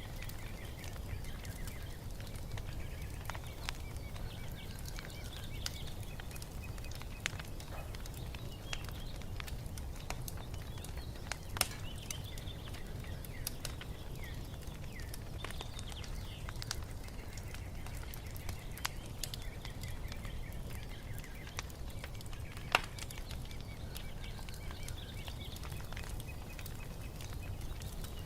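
Wood fire crackling with scattered sharp pops, the loudest about twelve and about twenty-three seconds in, over a low steady rumble, with birds chirping softly throughout.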